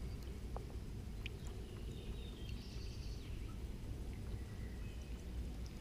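Faint bird calls over a steady low rumble, with a short twittering about halfway through and a few light clicks.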